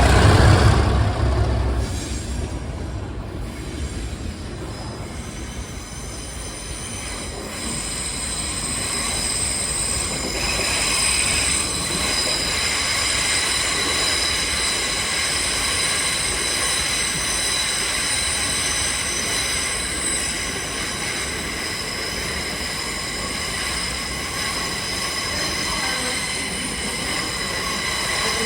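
Train wheels squealing on the rails in a steady, high-pitched whine of several tones, after a loud low diesel engine sound fades away about two seconds in.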